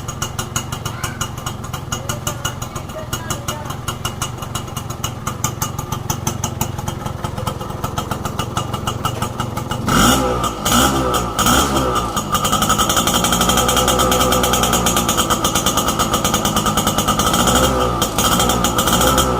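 1981 Yamaha YB100's single-cylinder two-stroke engine idling with a fast, even popping, then revved up in a few quick blips about halfway through. It is then held at higher, steady revs, dipping and rising again near the end.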